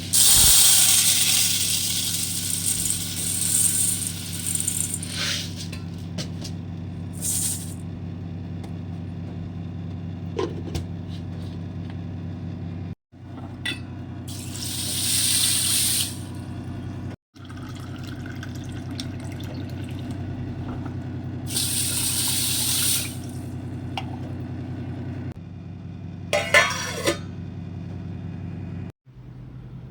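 Water running from a tap in several bursts of a few seconds each, the first and longest at the start, over a steady low electrical hum.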